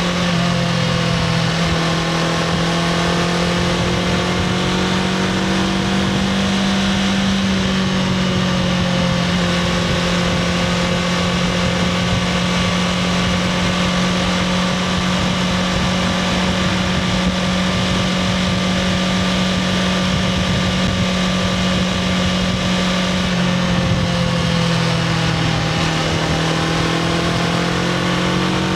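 Honda CBR500R's 471 cc parallel-twin engine running through its stock exhaust at a fairly steady engine speed. The engine note drops slightly near the end and then picks up again.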